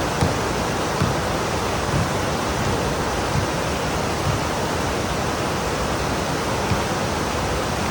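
Heavy rain pouring steadily, a dense even hiss, with a few brief low knocks from larger drops or drips scattered through it.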